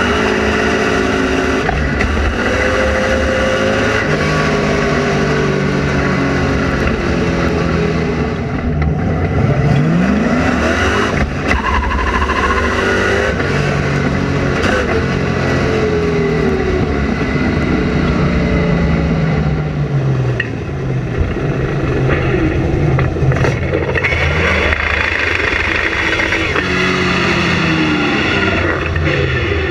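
Ford Focus engine with a K&N air filter, loud and continuous, revving up and dropping back several times as the car is driven hard and accelerated repeatedly.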